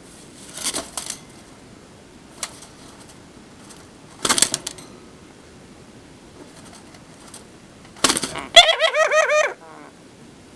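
Pet lovebird making a few short, harsh scratchy sounds, then near the end a rapid run of about nine quick chirping notes, about ten a second.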